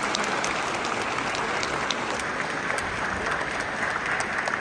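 Audience applauding in a hall, a dense patter of many hands clapping that thins slightly toward the end.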